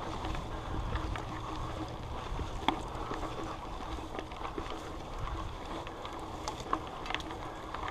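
Mountain bike rolling along a dirt trail: a steady rumble of wind and tyre noise with a few sharp clicks and rattles from the bike, the loudest about a third of the way in.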